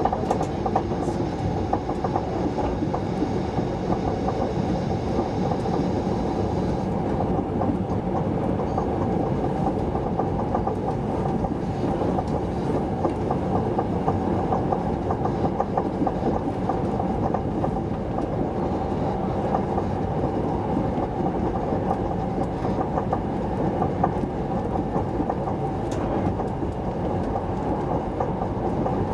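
Interior ride noise of an SJ X55 (SJ 3000) electric multiple unit running at speed: a steady rumble of wheels on rail heard inside the passenger car.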